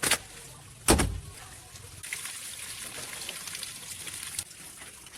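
Two heavy knocks about a second apart, the second louder, then a faint crackling hiss that stops with a click about four seconds in.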